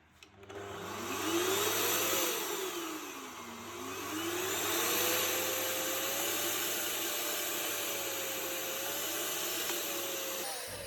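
Electrolux UltraFlex stick vacuum's motor switched on and spinning up with a rising whine. The whine sags about two seconds in, climbs again, and runs steady until the motor cuts off near the end. This is the vacuum working again after its faulty power micro switch was replaced.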